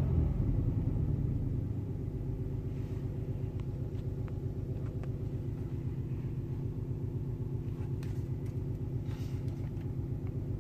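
Car engine settling from a rev back down to a steady, even idle through a freshly repaired exhaust and muffler, with no leak racket.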